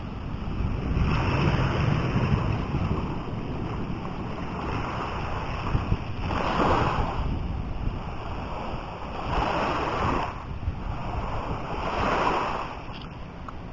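Sea waves washing onto a beach, the surf swelling and falling away every few seconds, with wind rumbling on the microphone.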